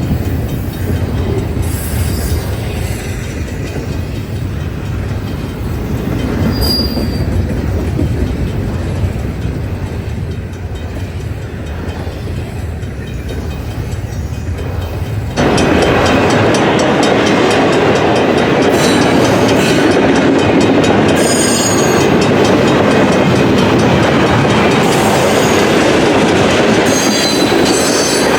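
Cars of a long intermodal freight train rolling past: a steady rumble of wheels on rail, with high-pitched flange squeal in the second half. The sound jumps abruptly louder about halfway through.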